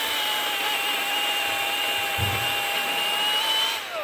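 Milwaukee M18 Hatchet battery mini chainsaw running at full speed with a steady high whine, then winding down just before the end as the trigger is let go.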